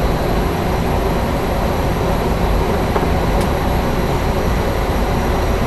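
Cessna Grand Caravan EX's Pratt & Whitney PT6A-140 turboprop engine and propeller running steadily on the ground, a constant heavy hum with a wash of noise over it.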